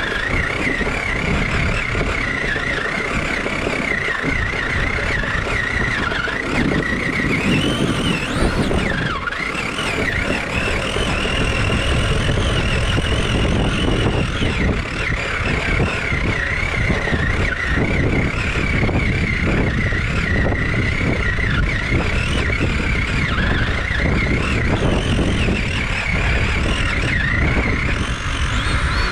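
Small nitro glow engine of a Traxxas Nitro Sport RC truck running at high speed, its high-pitched note wavering and rising briefly about a third of the way in.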